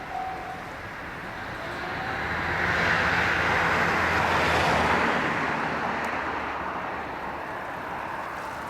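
An electric train passing the level crossing: its running noise swells to a peak about three to five seconds in, with a steady low hum underneath, then fades as it recedes. The crossing's warning bell, dinging about twice a second, stops just after the start.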